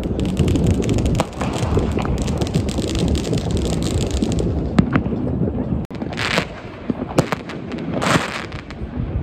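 New Year's Eve consumer fireworks: a dense volley of rapid bangs and cracks, like firework batteries firing. It is followed by two longer crackling bursts about six and eight seconds in, over a steady low rumble of distant explosions.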